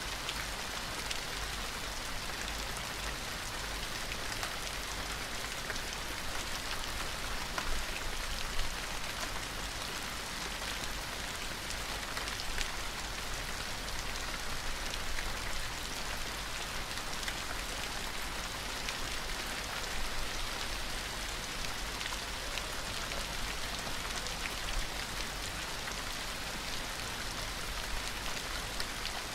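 Steady rainfall, many fine drops pattering on a surface, with no thunder.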